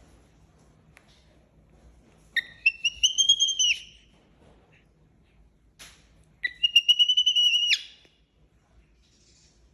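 Baby monkey crying with two high, whistle-like cries about four seconds apart, each lasting over a second and rising a little in pitch at the start: hunger cries for milk.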